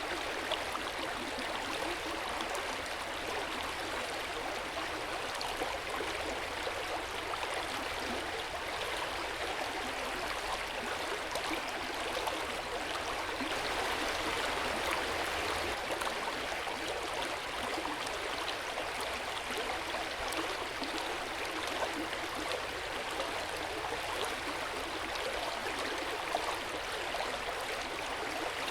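Hot spring water flowing into an open-air bath, a steady, even splashing rush.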